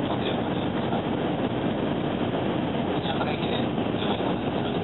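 700 series Shinkansen running, a steady rail noise heard from inside the passenger car.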